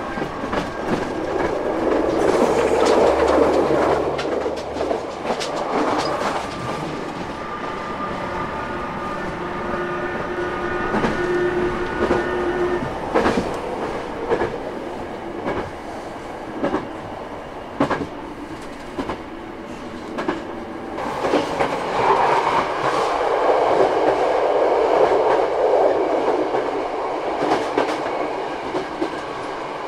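Running noise inside a Kyoto Tango Railway KTR8000 diesel railcar at speed: a steady rumble with wheels clacking over rail joints, swelling louder twice, with a faint steady whine partway through.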